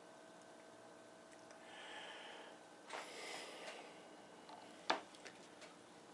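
Quiet breathing through the nose while a soda is sipped through a straw, with a breathy burst about three seconds in and a single sharp click about five seconds in.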